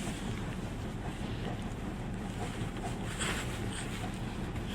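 Wind buffeting the microphone: a steady low rumble and hiss, with a short louder rush of hiss about three seconds in.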